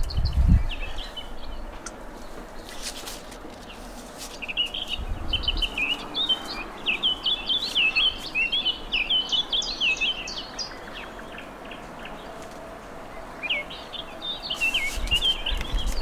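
Small songbirds chirping and twittering in quick high runs, busiest from about four to ten seconds in and again near the end. A few low rumbles on the microphone.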